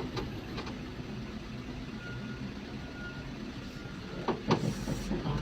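Truck engine running steadily, with two sharp knocks about four seconds in followed by a short hiss.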